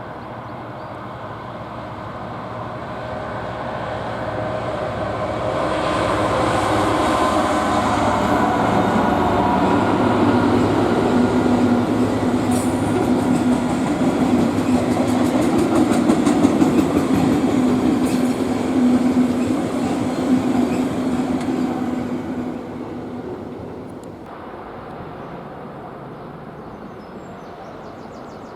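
A train approaching, passing close by and receding, loudest through the middle with a steady hum and some clicking from the rails, dying away a few seconds before the end.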